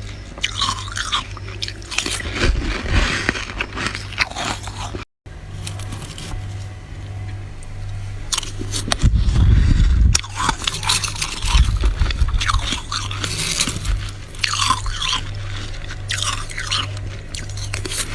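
Mouthfuls of flaky freezer frost being bitten and chewed close up, with dense crackling crunches and a few heavy low crunches. A steady low hum runs underneath, and the sound drops out briefly about five seconds in.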